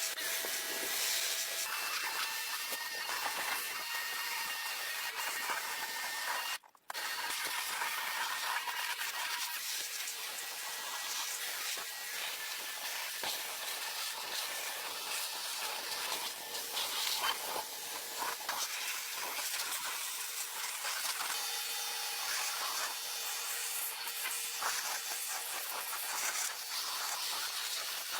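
High-pressure water spray hissing steadily, as from a car-wash pressure wand, with a brief break about seven seconds in.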